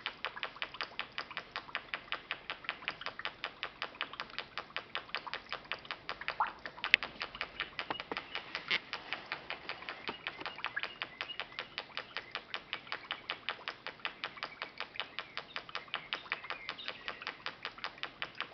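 Putt-putt (pop-pop) boat motor running, making a steady rapid ticking of about five pops a second, with one sharper, louder click about seven seconds in. Its intake/exhaust tubes sit near the water surface, giving a bubbling variation of the putt-putt.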